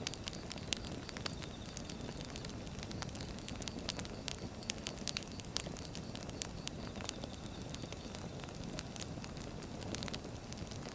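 Wood fire burning, a steady low rush with frequent irregular sharp crackles and pops from the burning logs.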